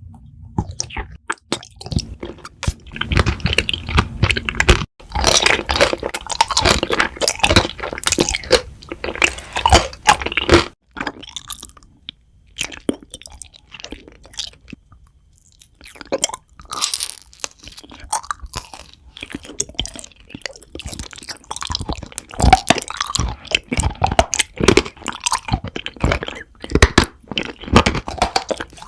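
Honey jelly being bitten and chewed close to the microphone: a dense run of crackles and clicks, with a quieter stretch around the middle before the chewing picks up again.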